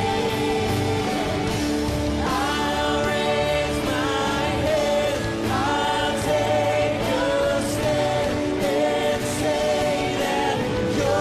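Contemporary worship song, the bridge section: voices singing a gliding melody over steady sustained instrumental accompaniment.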